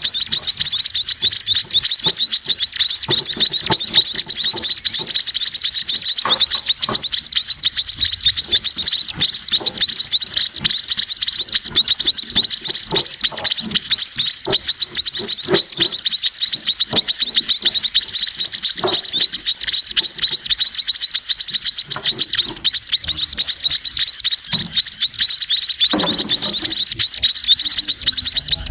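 Baby sparrows begging for food: a continuous fast run of high, thin chirps, with soft knocks and rustles underneath.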